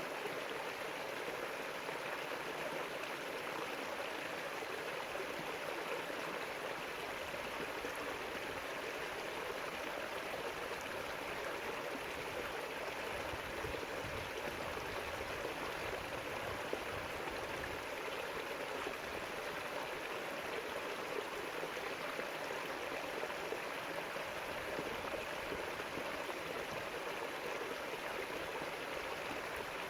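River water flowing, a steady unbroken rush and babble.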